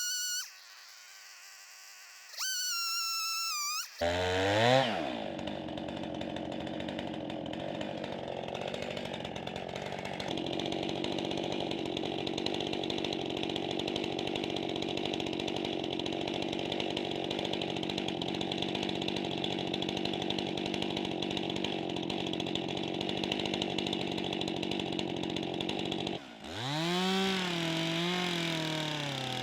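Chainsaw engine starting about four seconds in, its pitch rising quickly, then running steadily at high speed for some twenty seconds. Near the end the engine speed drops and then rises and falls in waves. It is preceded by two short pitched sounds.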